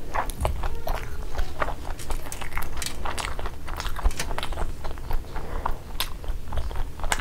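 Close-miked chewing and biting of sunny-side-up fried eggs: wet mouth sounds with small crunches, many short irregular clicks.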